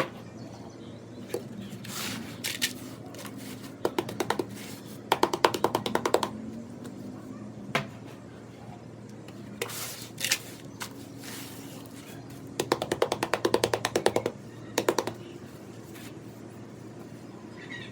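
Rapid tapping on dried sand-cement blocks, in two quick runs of taps with a few single knocks between, over steady background music.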